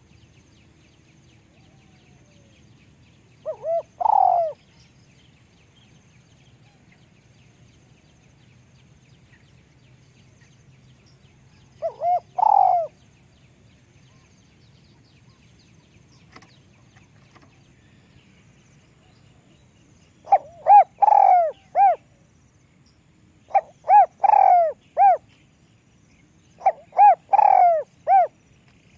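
Spotted dove cooing. Two single short coo phrases come several seconds apart, then from about two-thirds of the way through a faster run of repeated coo phrases in close groups, louder than the first two.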